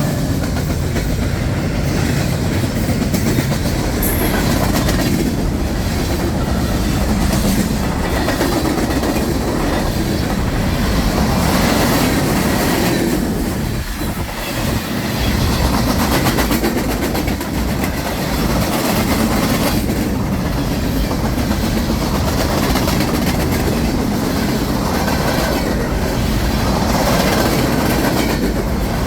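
Freight train rolling past, its cars' wheels clacking steadily over the rail joints, with a brief lull about halfway through.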